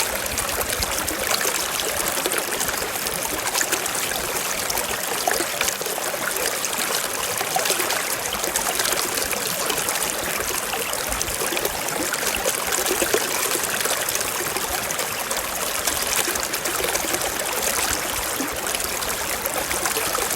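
Small mountain stream flowing over rocks: a steady babble of running water with fine trickles and splashes.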